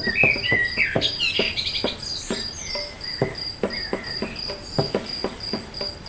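An insect chirping in a steady high pulse, about three chirps a second, with short bird chirps and a scatter of sharp small clicks and taps.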